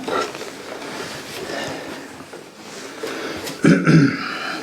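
Unpacking noise: telescope parts and packing material being handled, with rustling, scrapes and light knocks, and a louder brief scrape or thump about three and a half seconds in.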